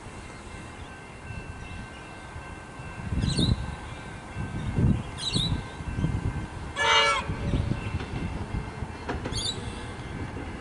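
Comeng suburban electric train running into the station, its wheels and motors giving a low rumble that swells and fades several times. About seven seconds in there is a brief shrill pitched tone, and there are a few short high squeaks.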